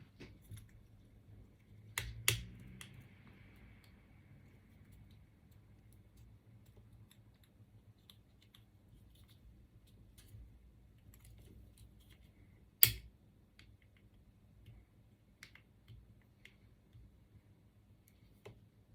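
Small parts and tools being handled while taking apart a 3D printer extruder: scattered light clicks and taps, two sharp knocks about two seconds in and a louder single knock about thirteen seconds in.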